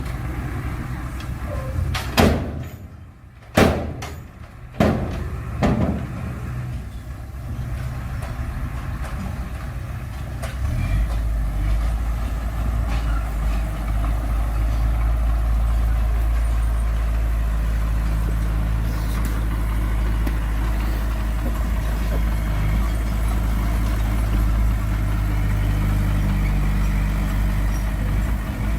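Heavy diesel earthmoving machine's engine running, with four sharp bangs between about two and six seconds in. About eleven seconds in the engine gets louder and deeper, then runs steadily.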